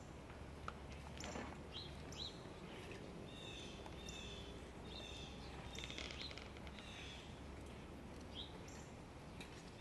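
Birds chirping: short, high calls repeating every second or so over a low steady hum.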